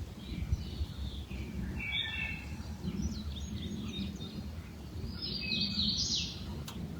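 Songbirds singing outdoors: short chirping phrases, the busiest burst near the end, over a low steady background rumble.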